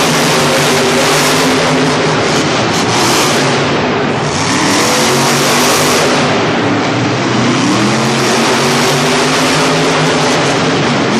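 Monster truck engine running loud under a dense roar, its pitch climbing as it revs up about four seconds in and again near eight seconds.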